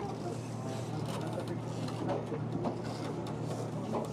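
Interior noise of a Kintetsu train carriage at a station: a steady low hum with a few light clicks and rattles, and faint voices murmuring in the background.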